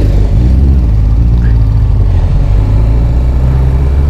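Benelli 600i's inline-four engine running steadily under way, a loud, even low drone.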